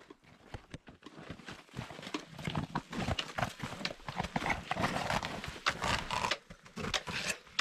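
Hikers' boots crunching through snow and ice, a quick, irregular run of steps that grows louder and busier about two seconds in.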